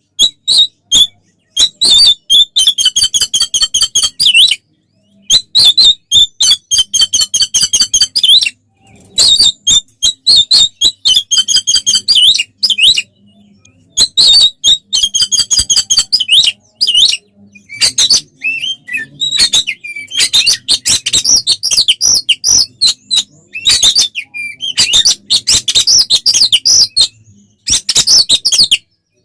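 Oriental magpie-robin (kacer) singing loudly in its agitated fighting-mode song. Fast, stuttering runs of repeated chattering notes come in bursts of a few seconds, broken by short pauses.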